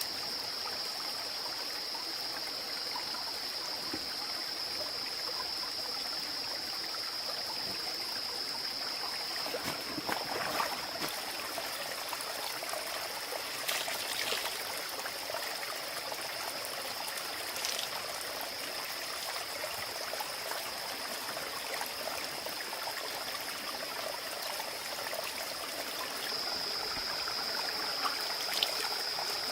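Water trickling and running steadily, with a steady high-pitched whine and a few light clicks.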